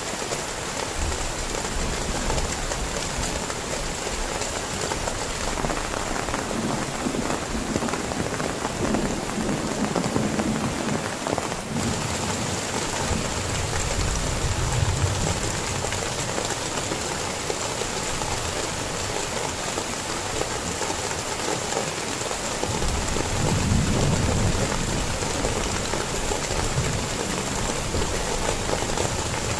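Heavy rain pouring steadily, with low rolls of thunder rumbling about halfway through and again later on.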